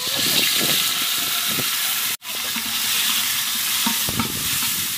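Soaked, drained soya chunks tipped into hot oil and ghee in a large metal pot, sizzling steadily as they fry. The sound drops out for an instant about two seconds in.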